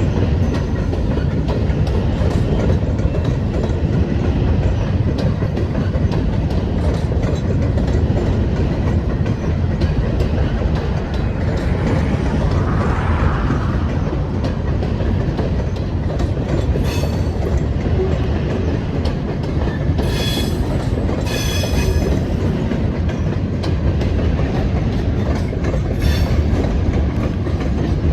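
Freight train cars rolling past, wheels clacking over the rail joints in a steady loud rumble. A few brief high-pitched squeals come from the wheels in the second half.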